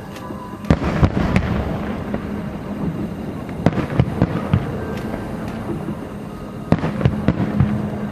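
Aerial fireworks shells bursting: clusters of sharp booms about a second in, near the middle and again near the end, with crackling in between.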